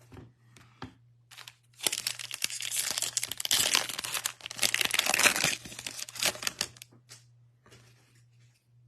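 A baseball card pack's wrapper being torn open and crinkled: a dense crackling rustle for about four seconds. Light clicks of cards being handled come before and after it, over a faint steady low hum.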